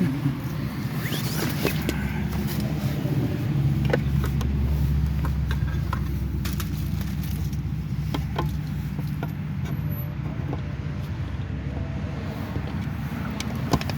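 Car engine idling with a steady low hum, with scattered light clicks and knocks over it.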